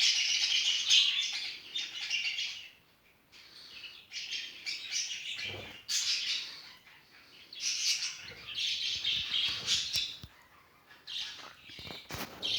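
Budgerigars chattering and warbling in spells of one to three seconds, with short pauses between them.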